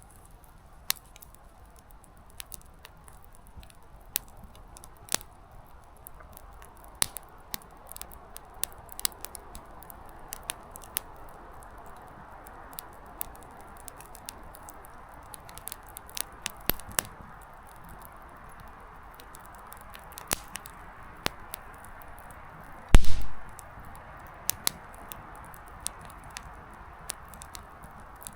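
Small wood campfire burning with a soft steady hiss, firewood crackling and popping in irregular sharp snaps. Late on there is one much louder thump.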